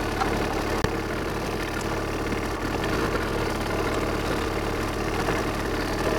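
Excavator's diesel engine idling steadily, with a single short click a little under a second in.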